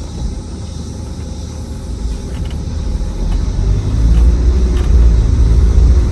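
LDV G10 van driving along a gravel road: a steady low rumble of engine and tyres that grows louder about halfway through.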